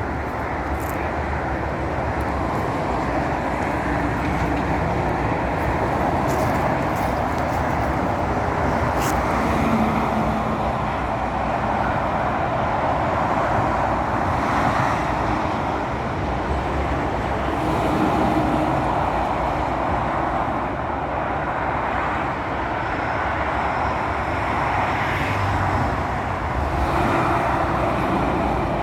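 Steady noise of motorway traffic passing below, tyres and engines blending into one continuous rush, with a few louder swells as single vehicles go by.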